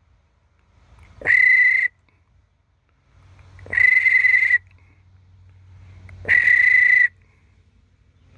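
A whistle blown in three short, loud blasts, each a single steady high note, as a call to a hawk.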